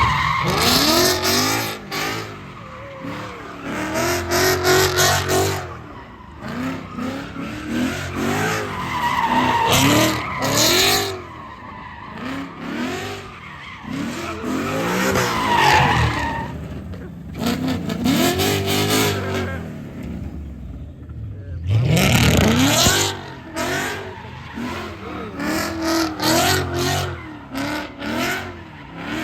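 Car engines revving hard up and down again and again, with tyres screeching as cars spin them on the pavement, and people shouting over the noise. Things drop off briefly about two-thirds of the way through.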